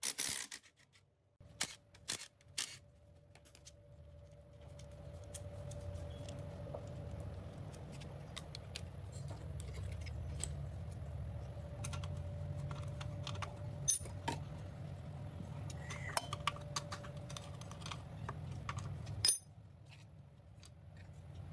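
Metal tools and engine parts clinking and tapping during hand disassembly of the engine, with a sharp knock about 19 seconds in, over a steady low hum.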